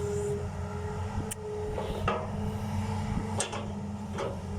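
Hitachi ZX200-5G excavator's Isuzu diesel running steadily with a held tone over it, and a few sharp knocks about a second apart.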